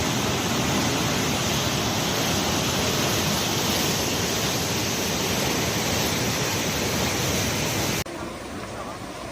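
Loud, steady rush of fast-flowing floodwater, cutting off sharply about eight seconds in to a quieter rushing.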